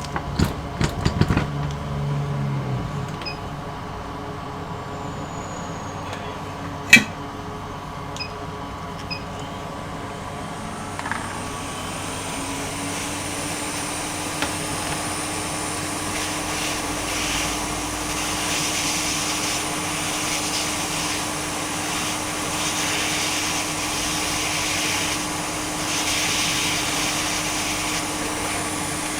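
A few knocks and a sharp click from handling tools. Then, about eleven seconds in, a hot air blower starts and runs steadily, a hiss with a hum that rises slightly as it comes up to speed, used to melt hot glue around a laptop charging port.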